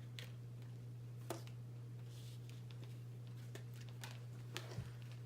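Faint, scattered taps and light rustles of tarot cards being handled, over a steady low hum.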